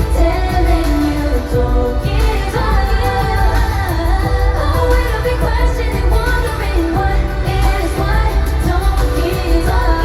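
Girl group singing a pop song live over a loud backing track with a heavy, steady bass.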